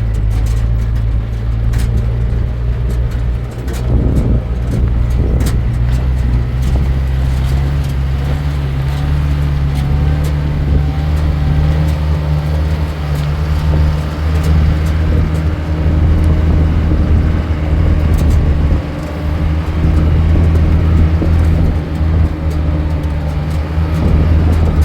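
A motor vehicle's engine running steadily while driving, its pitch rising slightly partway through, with road noise.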